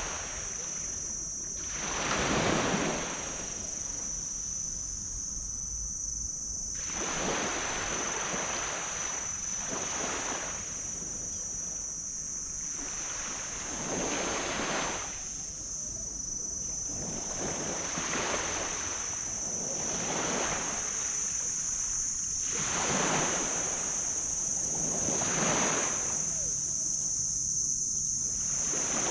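Small waves breaking and washing up on a black sand beach, one surge every few seconds, over a steady high-pitched hiss.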